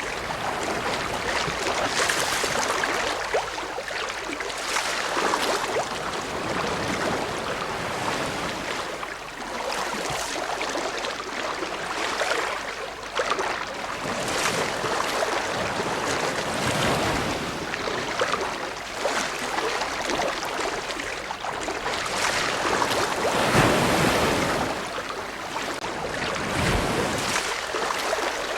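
Ocean waves breaking and washing on the shore in a continuous rushing wash, swelling and easing every few seconds, with one stronger wave a little before the end.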